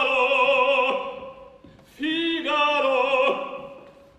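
Operatic singing: a held note with vibrato that fades out about a second in, then a second sung phrase that also dies away before the end.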